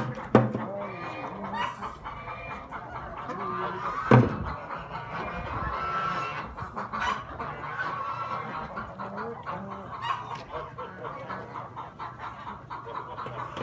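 A flock of domestic fowl calling, many short overlapping calls, with a sharp knock just after the start and a louder one about four seconds in.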